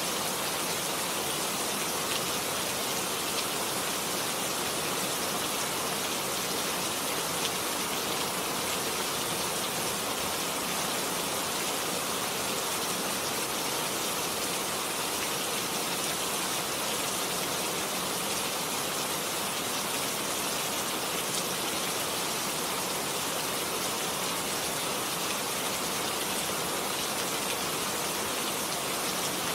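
Steady, heavy rain falling, a dense even hiss with scattered drop ticks that holds unchanged throughout.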